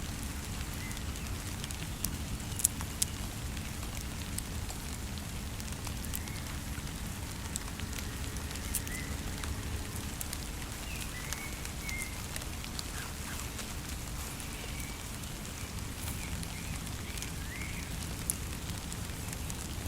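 Wood campfire crackling with scattered sharp pops over a steady hiss of rain.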